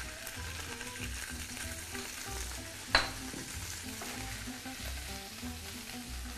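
Cubes of halloumi cheese sizzling as they fry in hot olive oil and sucuk fat in a pan. There is a single sharp knock about three seconds in.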